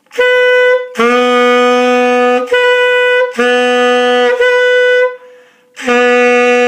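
Tenor saxophone held on one fingering with the octave key pressed. It starts on a short high C sharp, then is lipped down to sound the octave below, middle C sharp, and switches back and forth between the two octaves several times. There is a brief break before the last low note, which is held.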